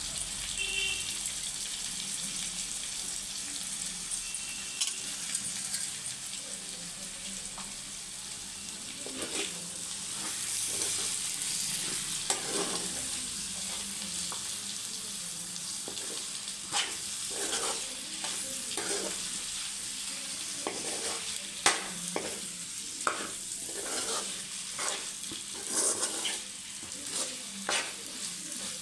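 Mutton frying in its oil in a kadai, sizzling steadily, while a steel spoon stirs it, scraping and knocking against the pan in short strokes that come more often in the second half.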